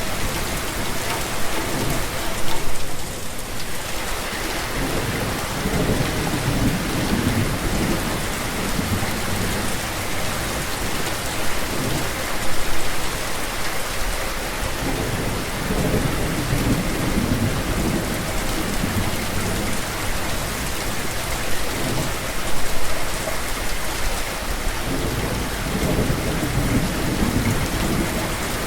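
Steady rain falling, with low thunder rumbling and rolling through it several times.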